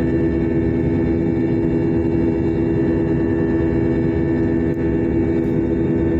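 Airliner's jet engines running steadily, heard from inside the passenger cabin: a loud, even drone with a constant hum and rumble.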